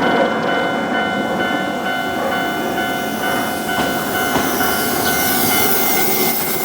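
Electric train running past a railway level crossing, rumbling and clacking over the rails, while the crossing's warning bell rings over and over.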